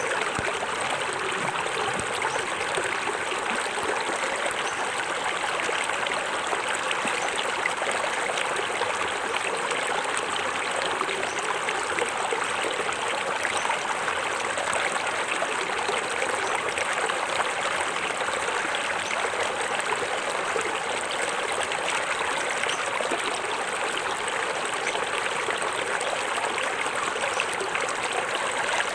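Small forest waterfall splashing steadily into a stream, an even rush of water with no breaks.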